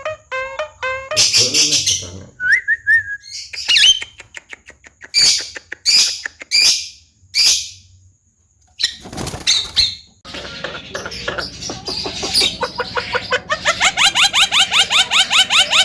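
Javan myna calling: a few short whistled notes and a series of harsh, rasping screeches, then after a short pause a fast run of rising chattering notes that grows quicker and louder near the end.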